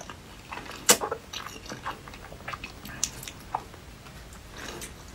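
Close-miked eating of saucy noodles and melted cheese: wet chewing with scattered sharp mouth clicks, the sharpest about a second in.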